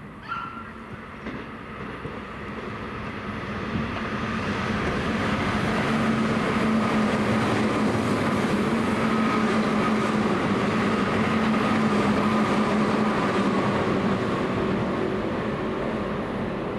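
Tobu 10030 series electric commuter train running past, its sound growing louder over the first several seconds and holding steady, with a steady hum and a higher whine over the rail noise.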